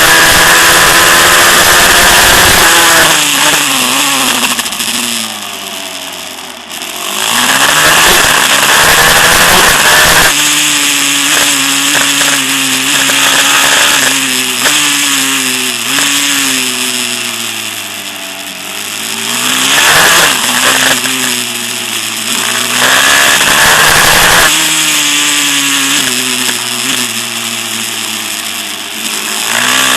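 A 190cc four-stroke single-cylinder pit bike engine revving hard and easing off over and over as it is ridden, its pitch rising and falling with each throttle change. It fades a little three times and comes back loud as the bike moves farther off and returns.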